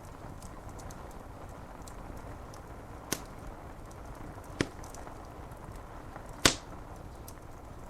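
Wood fire crackling with three sharp pops, about three, four and a half and six and a half seconds in, the last one the loudest, over a steady hiss of rain on window glass.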